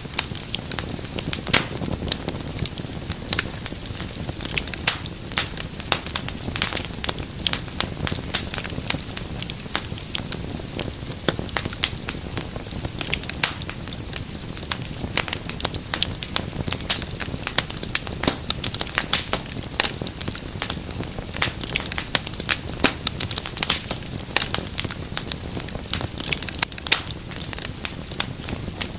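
Wood fire crackling steadily, with many irregular sharp pops and snaps over a low rumble of the flames.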